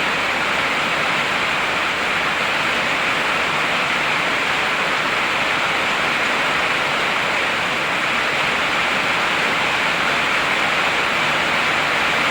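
Heavy rain pouring down steadily: a dense, even hiss with no separate drops or thunder standing out.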